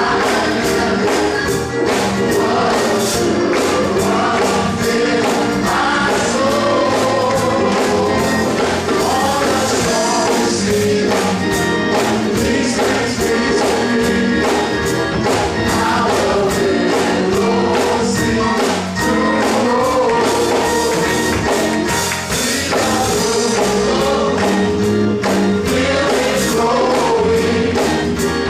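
Gospel choir singing with band accompaniment over a steady percussion beat.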